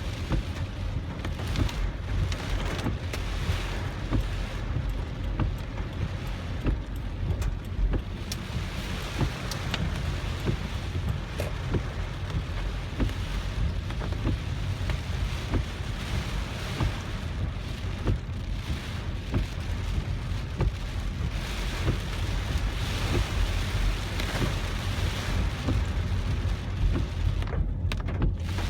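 Heavy typhoon rain beating on a moving car, with scattered drop hits over a steady low rumble of the car and wind.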